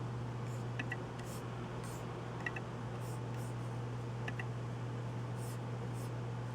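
Computer mouse clicking: three quick double clicks spread out, with faint soft rustles between them, over a steady low hum.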